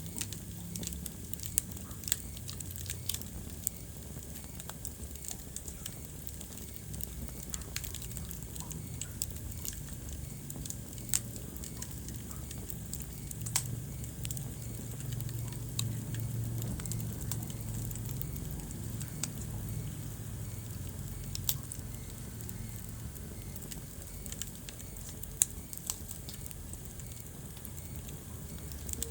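Wood fire crackling in a fireplace. Irregular sharp pops and snaps, a few of them louder, sound over a low, steady rumble of the burning fire.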